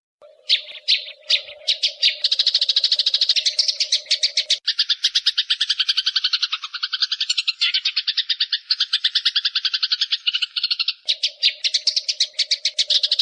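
Eurasian tree sparrows chattering in fast, evenly repeated chirps, the agitated calling of sparrows fighting. The pattern shifts to a lower, denser chatter for several seconds in the middle, and a low steady hum runs under the first and last parts.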